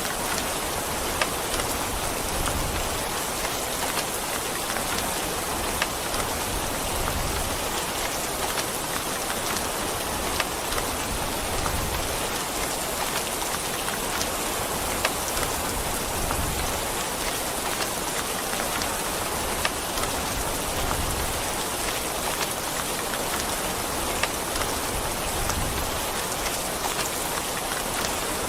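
Steady rain falling, an even hiss with scattered sharper drips and taps of individual drops.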